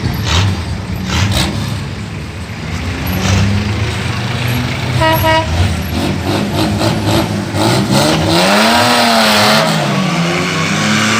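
Truck engine being revved on request, its pitch rising and falling near the end, with a quick series of short horn toots about five seconds in.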